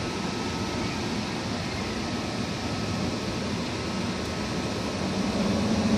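A machine running steadily: a fan-like rushing with a low hum, getting louder near the end.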